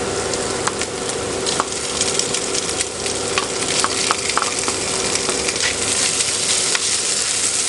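Spanish sardines in olive oil sizzling as they are scraped into a hot pan of frying onion, with a wooden spatula clicking and scraping against the dish and pan as it stirs them in. The sizzle is steady, with many small sharp clicks scattered through it.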